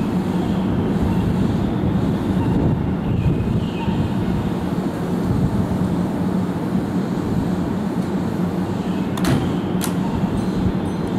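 Keihan electric train at a station platform: a steady low rumble with a constant hum. Two sharp clicks come about nine seconds in.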